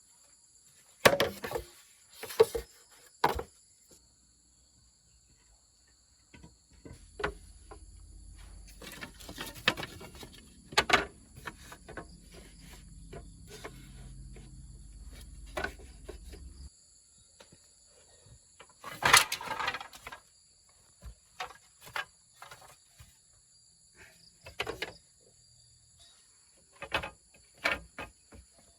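Insects chirring steadily and high, with scattered knocks and clatters of handwork, the loudest about two-thirds of the way through. A low rumble runs through the middle third.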